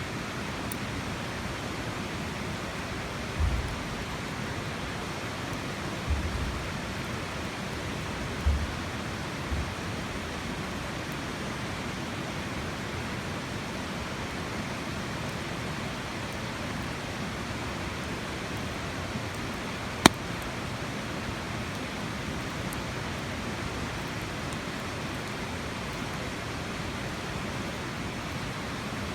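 Steady rushing of flowing water, even and unbroken, with a few dull low thumps in the first ten seconds and a single sharp click about twenty seconds in.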